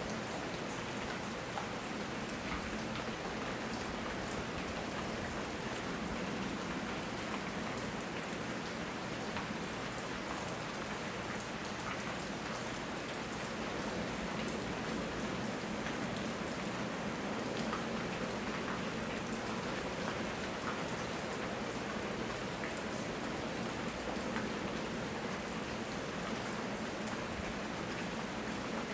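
Steady rain falling and pattering on surfaces, an even hiss with many small drop ticks and no let-up.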